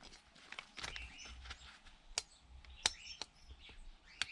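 A few sharp, isolated clicks and taps from parts of a dismantled DVD player being handled, about three in all, with faint bird chirps between them.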